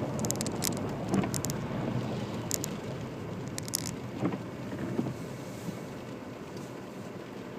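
Citroen C4 driving, heard from inside the cabin: a steady low rumble of engine and road. Over the first four seconds or so come clusters of sharp clicks from the phone mount rattling, and a couple of dull knocks fall near the middle.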